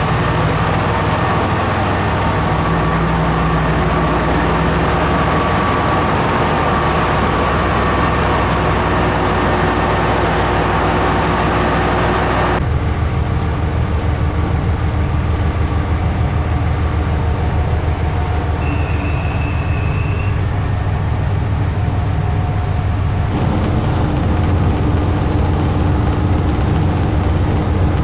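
Diesel railcar running on the San'in Main Line, a steady engine and rail noise. About twelve seconds in, the upper hiss drops away abruptly. A short high electronic tone sounds for about a second and a half around the middle.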